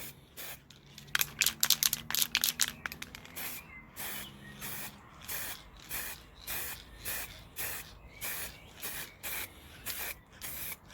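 Aerosol spray-paint can spraying in short bursts, quick and close together for the first few seconds, then about two a second.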